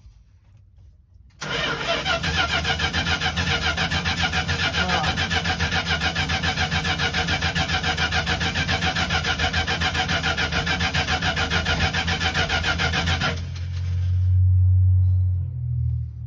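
Starter motor cranking the 1975 Winnebago Brave's engine for about twelve seconds in fast, even pulses without it catching. The owner then suspects a blocked fuel line. A low rumble follows for a couple of seconds after the cranking stops.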